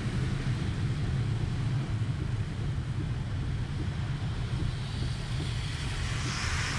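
Steady low rumble of a car being driven, heard from inside the cabin, with a rushing hiss swelling near the end.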